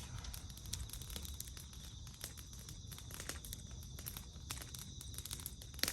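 Firewood burning in a fire pit, crackling with scattered small pops over a low rumble.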